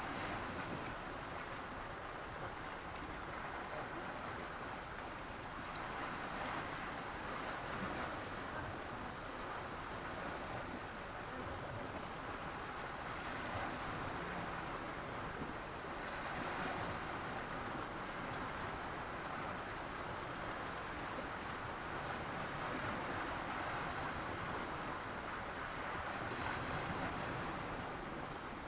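Sea waves breaking and washing on a beach, a steady rush of surf that swells louder every few seconds as each wave comes in.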